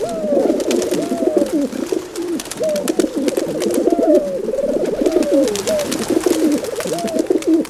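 Several domestic pigeons cooing, their overlapping burbling calls running on without a break.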